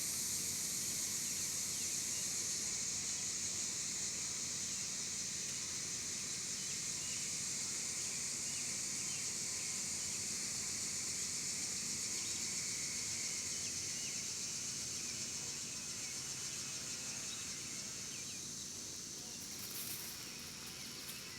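Steady high-pitched insect chorus, easing off slightly near the end.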